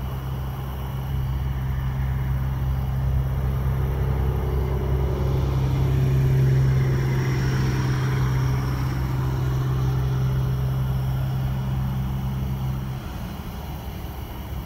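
Motor vehicle engine running with a steady low hum, while a broad rushing noise swells and fades around the middle. The hum cuts off about a second before the end.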